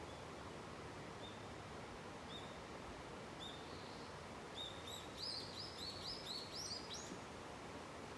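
A small wild bird chirping: a few short, arched chirps spaced about a second apart, then a quicker run of about eight that climbs in pitch near the end. Under it runs a steady rushing background noise.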